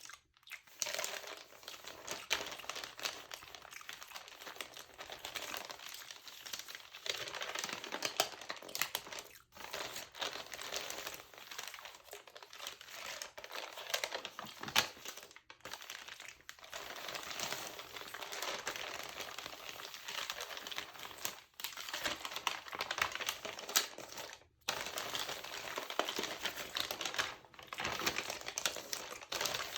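Textured LCBO magazine pages crinkling close to the microphone, a dense crackle of small clicks, mixed with mouth sounds. The crinkling stops briefly a few times.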